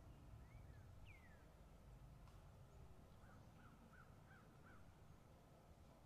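Near-silent woodland ambience with a low steady rumble, and faint distant bird calls: a couple of short downward-sliding calls about a second in, then a quick run of five short calls between about three and five seconds in.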